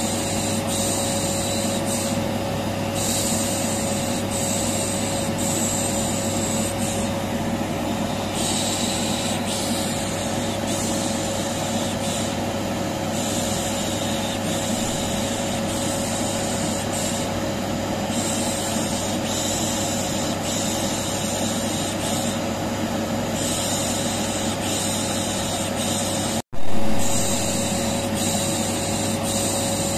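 Vacuum cleaner running with a steady hum, under a hissing 'pış pış' shush that comes and goes every second or two. This is a looped white-noise track for soothing a colicky baby. The sound cuts out for an instant about 26 seconds in, followed by a brief louder burst.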